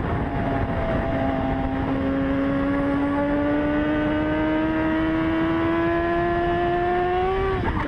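A vehicle engine pulling under steady acceleration, its drone rising slowly in pitch over several seconds, with road noise beneath. Near the end the pitch drops off sharply.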